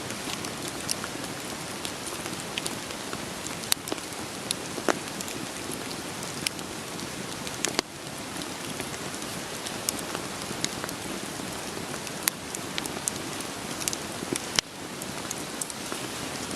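Wood fire crackling, with irregular sharp pops and snaps over the steady hiss of rain falling.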